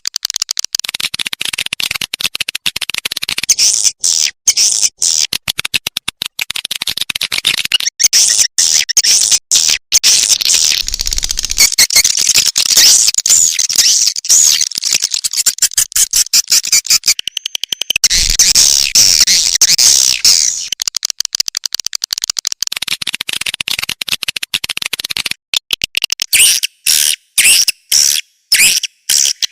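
Swiftlet call-sound lure track: dense, rapid, high-pitched twittering and chirping of swiftlets, the kind played to draw swiftlets into a nesting house. It runs in a continuous chatter with brief gaps, then breaks into short separate bursts near the end.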